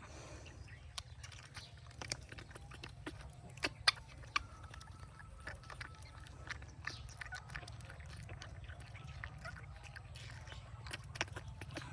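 A baby monkey sucking and smacking at a milk bottle: irregular wet clicks, the sharpest a few about four seconds in, over a steady low hum.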